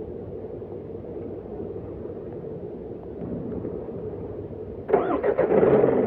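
Isuzu 4HL1 four-cylinder turbo-diesel engine running steadily, now running after its dirty, stuck-open EGR valve was cleaned. About five seconds in it gets suddenly louder.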